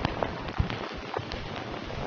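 Steady rain falling, with many individual drops hitting a surface in quick, irregular succession.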